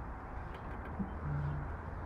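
Rebuilt 1966 Morris Cooper S engine running steadily at idle during its run-in. A single click comes about a second in, followed by a brief low hum.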